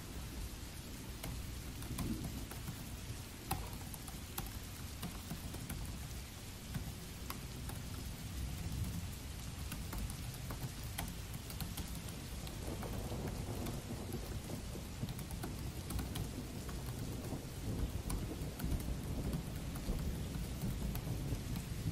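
Steady rain with a low rumble underneath, and scattered soft clicks of typing on a Dell laptop's chiclet keyboard.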